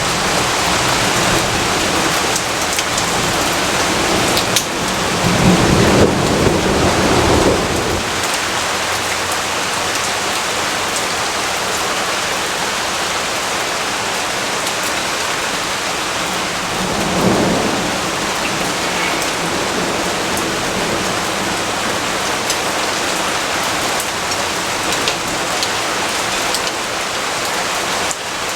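Steady heavy rainfall with rolls of thunder: a long rumble swells about five seconds in and lasts a few seconds, and a shorter one comes about seventeen seconds in.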